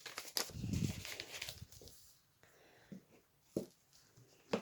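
Paper and card rustling as the pages and inserts of a handmade paper journal are handled and turned, with a low bump about half a second in and a few sharp taps later on.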